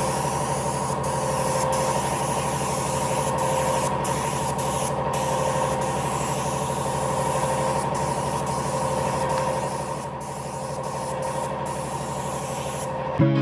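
A power tool or workshop machine running steadily, giving a constant motor hum under a hiss.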